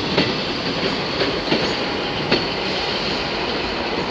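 Class 319 electric multiple unit pulling out of the station: a steady rumble of the train rolling, with a few sharp, irregularly spaced clicks of its wheels over rail joints and pointwork.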